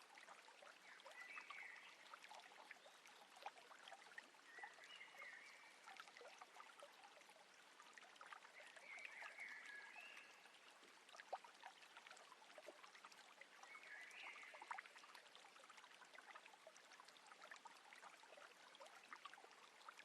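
Faint water trickling and lapping with tiny drips against a slow-moving boat. A short, faint animal call sounds four times, a few seconds apart.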